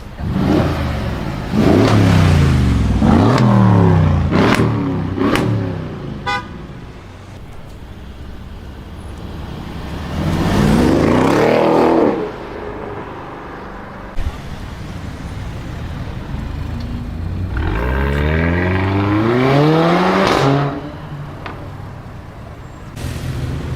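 Loud car exhaust revving hard through several quick upshifts, each rise in pitch dropping at the shift. Two more bursts of hard acceleration follow, about ten and eighteen seconds in.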